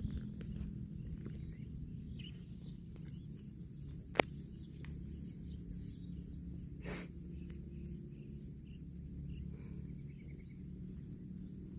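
Outdoor rural ambience: a steady low rumble with faint bird chirps, a single sharp click about four seconds in and a short softer rustle about three seconds later. No cow mooing.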